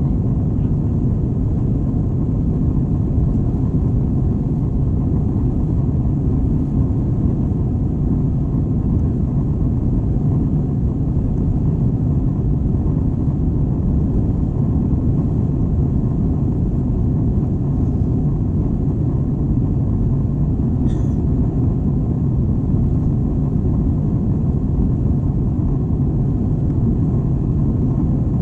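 Steady low rumble of an Airbus A321 heard from inside the passenger cabin: engine and airflow noise.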